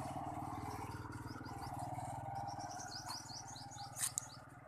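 A bird calls a quick run of short, rising high chirps over a motorcycle engine running at low speed; the engine fades away after about a second and a half. Two sharp clicks come near the end.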